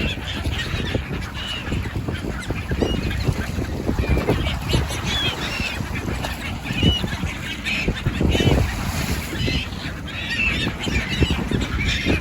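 A flock of birds calling over one another, many short calls that rise and fall in pitch, over a steady low rumble.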